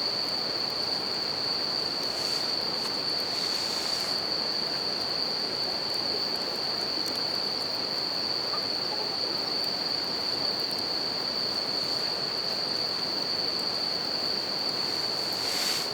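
Steady rush of a river with a bell cricket (suzumushi) singing one continuous high-pitched trill throughout, and faint crackles from a wood campfire.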